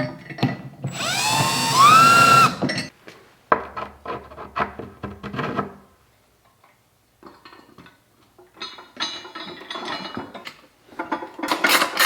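Tools and metal parts of a manual tire changer being assembled: a loud whine rising in pitch for about two seconds near the start, then clattering and knocking, and a burst of rapid clicking near the end.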